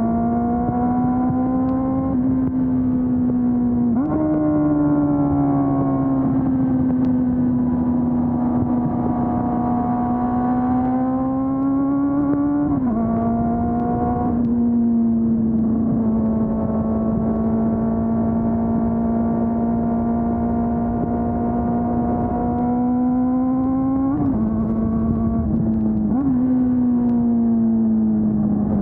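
2020 Honda CB400 Super Four's inline-four engine, through the stock exhaust, pulling at moderate revs on the road. The pitch climbs slowly under throttle and jumps abruptly several times as the rider changes gear.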